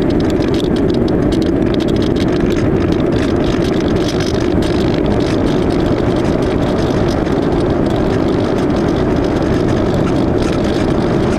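Steady in-flight noise from an AXN Floater Jet RC plane's electric motor and pusher propeller, mixed with rushing air, loud and unchanging.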